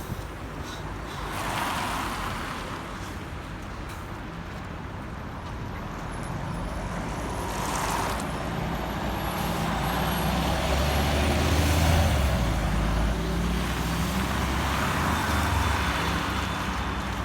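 Scania city bus running along the road, with a steady engine hum and road noise; the engine grows louder about nine seconds in and is loudest about twelve seconds in before easing a little.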